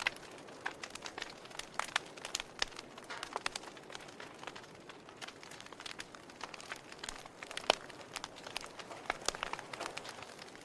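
Wood fire crackling in a fireplace, with irregular sharp pops and snaps over a soft hiss; one pop about three-quarters of the way through is the loudest.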